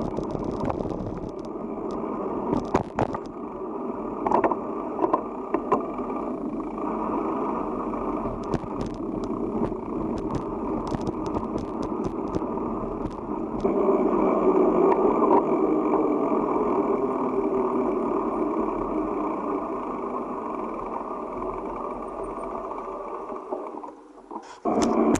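Steady rushing noise of a bicycle ride picked up by the camera, wind and tyre noise with scattered clicks and rattles, getting louder about halfway through and dropping out briefly near the end.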